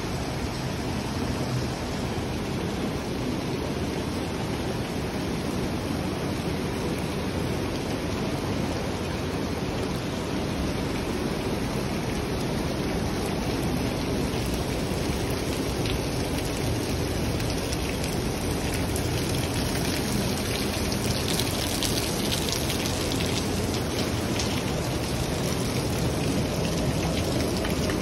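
Heavy rain pouring down steadily, with a spell of louder, sharper patter of drops about three-quarters of the way through.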